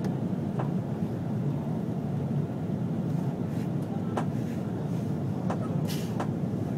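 Steady low rumble of engine and airflow noise inside the cabin of an Airbus A330-300, with a few light clicks or rattles.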